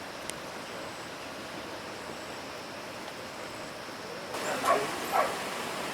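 A dog barking twice in quick succession near the end, over a steady background hiss.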